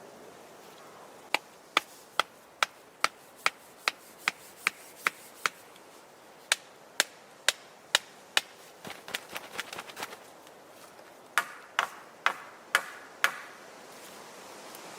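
Sharp blows of a tool on wood, about two and a half a second, in three runs with short pauses between them. The first run has about a dozen strikes and the later two about five each, with a few softer knocks in between.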